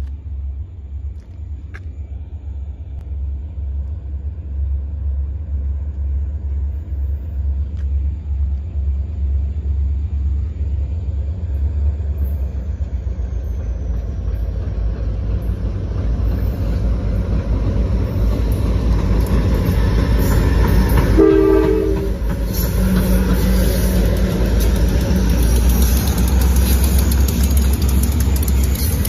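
Diesel freight locomotives accelerating toward track speed, a heavy rumble that grows steadily louder as they approach and pass close by. There is a short horn toot about 21 seconds in, and higher wheel-on-rail noise builds in the second half.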